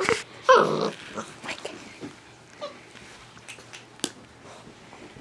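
Yellow Labrador retriever puppies, six weeks old, at play: one loud short yip about half a second in, then a faint squeak, with light clicks and scuffles.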